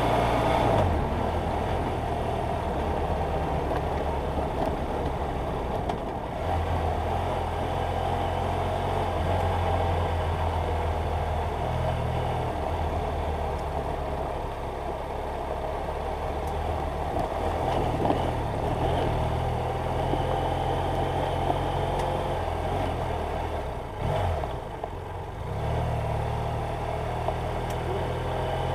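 BMW F800GS Adventure's parallel-twin engine running under way, its note shifting up and down in steps several times, with a brief dip near the end.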